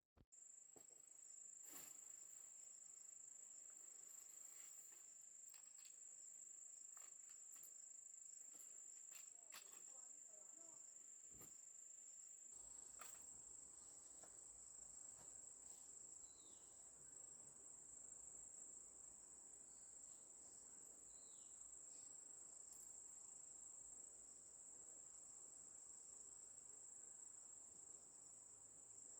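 Insects keeping up a faint, steady high-pitched trill, with scattered soft ticks and clicks and, twice in the second half, a brief falling chirp.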